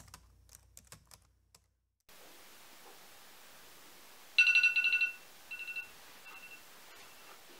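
A few keyboard clicks like typing, then about four seconds in a loud electronic beep tone that repeats three more times, each shorter and fainter.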